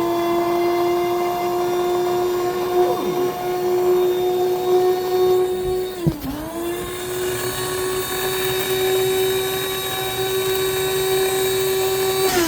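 Small electric food grinder running on sliced garlic with a steady, high motor whine. It briefly slows and picks up again about halfway through, then spins down at the end.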